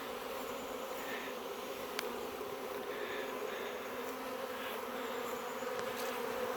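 Honey bee swarm buzzing: a steady, even hum of many bees flying around the cluster, with a few faint ticks.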